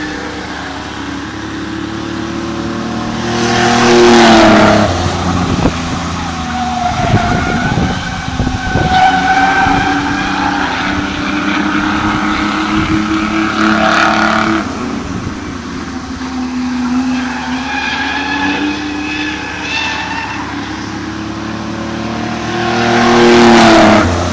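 A single car's engine running hard as it laps an oval track. It passes close by about four seconds in and again near the end, loud, with its pitch dropping as it goes past, and is heard more faintly while it is on the far side of the track.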